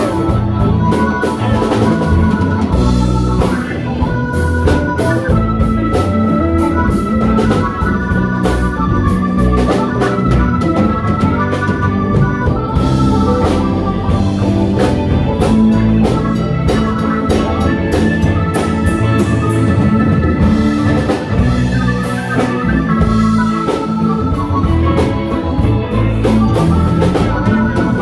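Live band playing an instrumental passage: held notes over drums.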